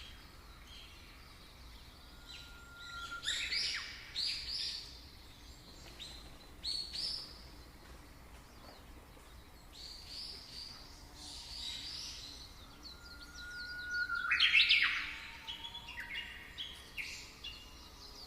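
Birdsong: birds singing in short, repeated phrases, several of them opening on a held rising whistle before a quick burst of higher notes, over faint background noise. The loudest phrase comes about three quarters of the way through.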